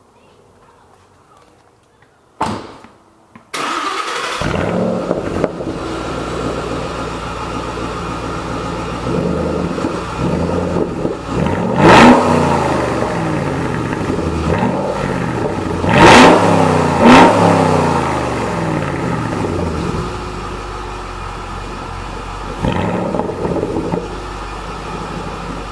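2011 Shelby GT500's supercharged V8 starting up through Corsa mufflers after a short thump, then idling. It is revved sharply three times in the middle, the last two close together, with a smaller blip later, then settles back to idle.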